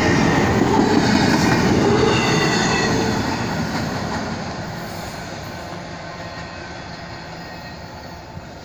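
Norfolk Southern intermodal freight train's cars rolling past on the rails, loud for about three seconds and then fading steadily as the train moves away. A few short high wheel squeals in the first two seconds.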